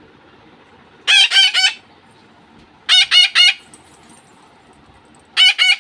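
Pet parakeets screeching in three loud bursts, each of three or four quick shrill calls.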